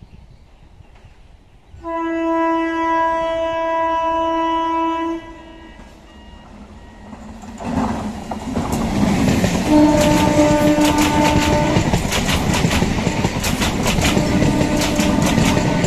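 Local EMU electric train sounding its horn in one long blast while still distant, then rushing past at speed, its wheels clattering over the rail joints, with two more horn blasts as it goes by.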